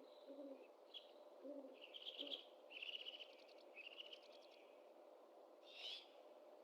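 Great horned owls calling faintly: three short low hoots in the first couple of seconds, overlapped by higher buzzy, rapidly pulsed calls, and a brief high squeal near the end, over a faint steady hum.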